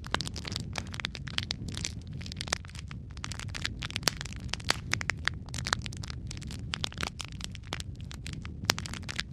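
Wood fire crackling in a fireplace: many sharp, irregular pops and snaps over a low steady rumble of the flames.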